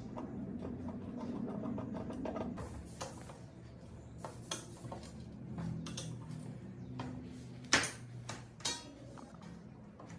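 A steady hum for the first couple of seconds, then scattered clicks and clinks of small hard parts and tools being handled, with one sharper knock about three-quarters of the way in.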